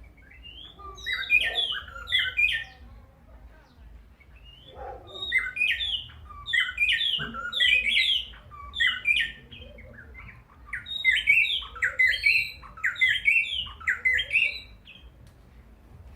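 A territorial male songbird sings loud phrases of quick, repeated chirping notes. It sings in three bursts, each separated by a short pause.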